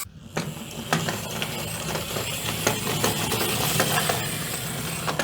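Rapid, irregular light clicking and clattering of small hard toy parts, over a faint steady low hum.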